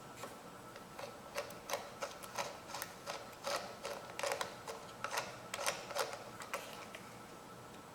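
Irregular light clicks and taps of hand tools and small metal parts being handled while an engine is reassembled, with no steady rhythm.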